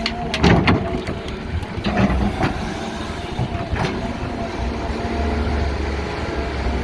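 Six-cylinder diesel hydraulic excavator running under load with a steady engine rumble and whine, digging in rocky ground. Several sharp knocks and clatters in the first four seconds, the loudest about half a second in, as the bucket works the rock.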